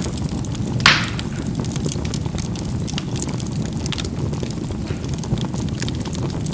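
Charcoal burning in a fireplace: a steady low rumble of flame with scattered small crackles, and one loud sharp pop of the charcoal bursting about a second in.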